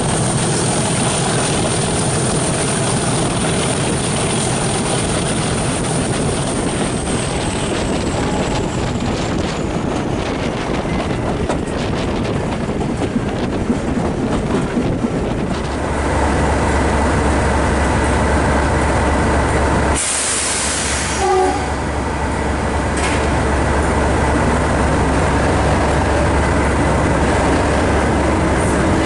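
A diesel-hauled train, Class 37 locomotive 37714 at its head, heard from an open carriage window: wind and wheel noise at speed. About halfway through, the sound changes to a steady low drone, and a brief sharp hiss comes about two-thirds of the way in.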